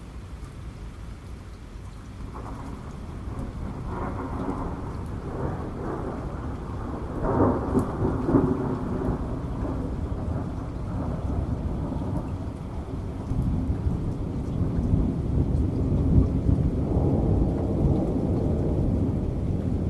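Thunder rumbling over steady rain: a long rolling peal builds from a couple of seconds in and is loudest around the middle, then a second long rumble swells near the end.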